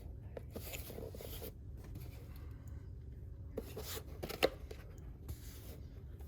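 Cardboard box and wrapping being handled and opened: soft rustling in two spells with a few light clicks.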